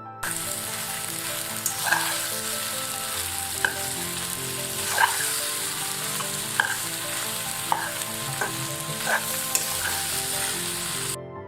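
Food sizzling in a hot frying pan as it is stirred, a utensil clicking against the pan about once a second. The sizzling cuts in and out abruptly.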